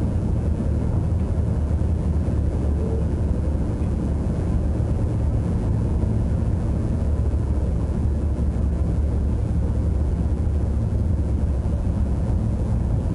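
Steady low rumble of a train running along the track, heard inside the driver's cab.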